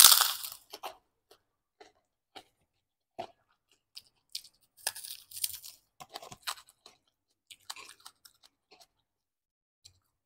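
A loud crisp crunch as a crunchy curly fried cracker (kerupuk) is bitten, then close-miked chewing with short crackling crunches that come thicker in the middle and thin out near the end.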